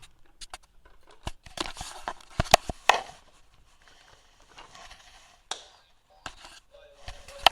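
Handling noises: clicks, knocks and rustling as a Winnie the Pooh toy ball is picked up and handled, with a few sharp clicks a few seconds in. A faint steady tone starts near the end.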